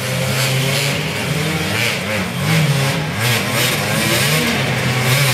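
Several enduro motorcycle engines revving at once, their pitches rising and falling in overlapping bursts as the bikes struggle for grip on a muddy climb.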